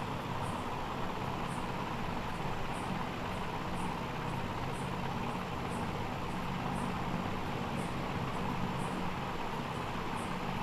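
Steady whir and hum of a hot-air rework station's blower running, with faint high ticks recurring about once or twice a second.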